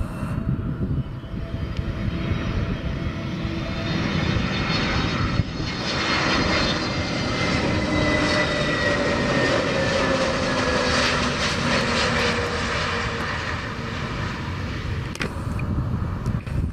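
Airliner engines passing on the landing approach: the engine noise builds, and the whine slides down in pitch as the aircraft goes by, then eases off toward the end.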